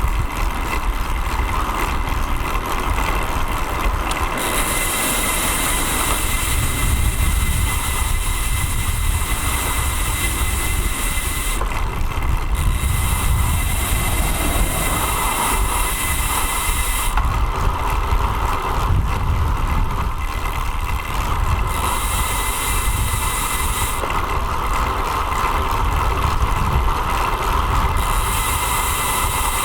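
Wind buffeting and road rumble picked up by an action camera mounted on a road bike while riding, with a high hiss that comes and goes in stretches of a few seconds.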